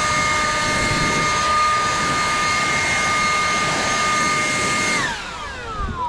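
An electric power tool's motor running at full speed with a steady high whine, then switched off about five seconds in, its pitch falling as it spins down.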